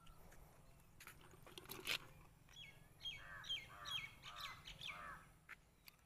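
A bird calling in a quick run of about six repeated notes, roughly two a second, a little after halfway. Before it come a few sharp knocks, the loudest about two seconds in.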